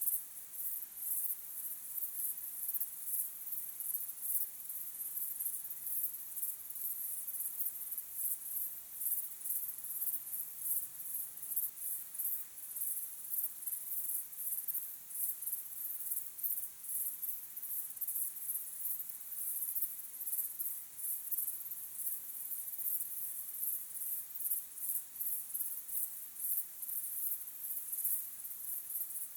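Crickets chirping in a steady chorus of high-pitched, rapidly repeating chirps.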